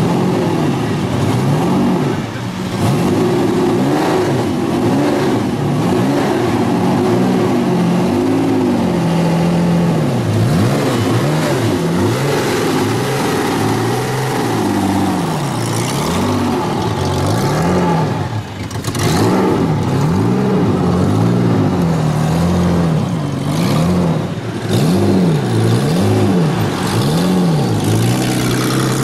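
Falconer V12 engine of a hand-built hot rod, revved again and again through its open side-exit exhaust pipes. Its pitch climbs and drops with each quick blip, settling back to a steady idle in between.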